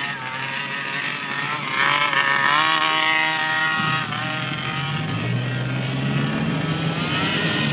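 Two-stroke gas engine of a 1/5-scale HPI Baja RC buggy revving up about two seconds in and holding high, easing off around four seconds, then climbing again near the end.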